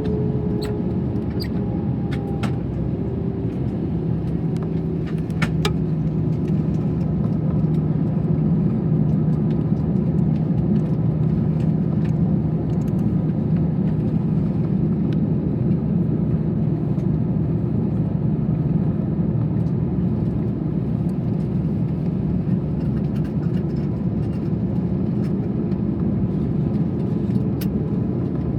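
Airliner cabin noise inside an Airbus A321 on the ground: a steady low rumble from the engines at idle and the cabin air system, with a steady hum. There are a few light clicks in the first six seconds.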